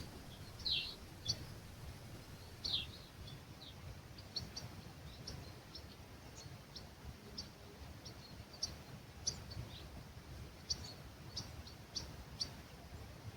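Small birds chirping: a few louder downward-sweeping calls in the first three seconds, then a steady scatter of short high chirps. A low rumble of breeze runs underneath.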